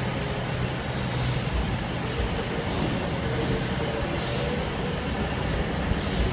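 A train standing at the platform with a steady low engine hum, broken three times by short hisses of released air from its brakes.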